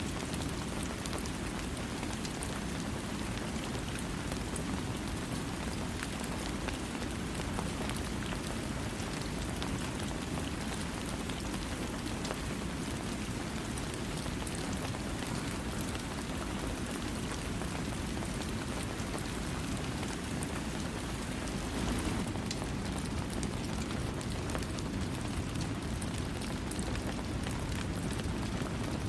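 Steady rain falling, with a dense patter of drops on a surface and no thunder.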